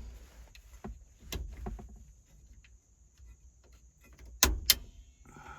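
A few sharp clicks and knocks from hands working at the steering column, with two loud clicks close together near the end.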